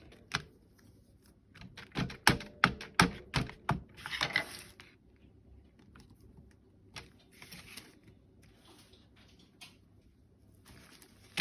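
Craft work at a desk: a quick run of sharp taps, like a stamp or tool knocked against paper and tabletop, in the first few seconds. Then short spells of soft scrubbing, as of an ink pad or blending tool rubbed over paper.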